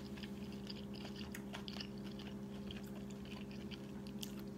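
Faint close-mouthed chewing with soft scattered clicks, over a steady low hum.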